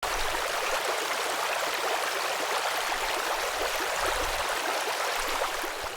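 Stream water flowing steadily, easing off slightly near the end.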